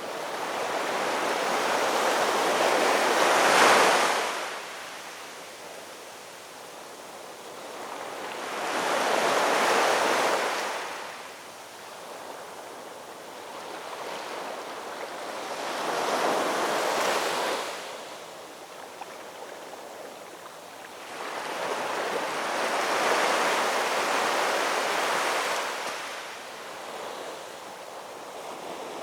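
Ocean waves washing in and drawing back, each one swelling and fading, about one every six to seven seconds.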